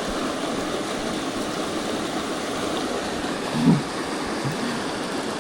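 Mountain stream water rushing steadily, with a brief hum or vocal sound from a man about two-thirds of the way through.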